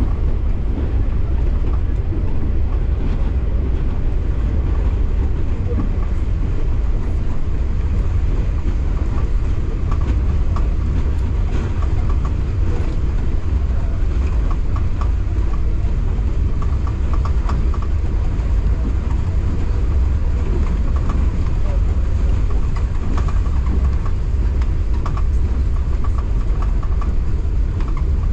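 Local passenger train running along the track: a steady low rumble with running noise.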